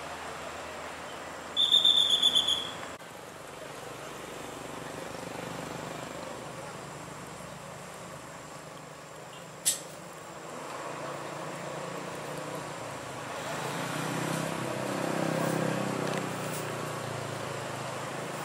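Heavy machinery engine running steadily, building up louder for a few seconds near the end. About two seconds in, a loud, high, pulsing whistle-like tone sounds for about a second, and a single sharp click is heard midway.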